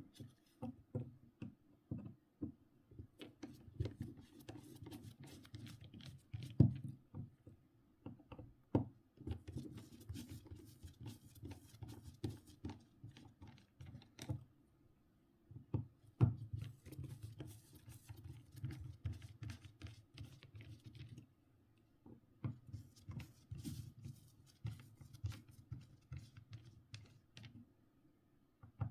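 Irregular clicks, taps and rubbing of hands handling a Nokia C5-00 mobile phone's small plastic parts during disassembly, in clusters with short pauses.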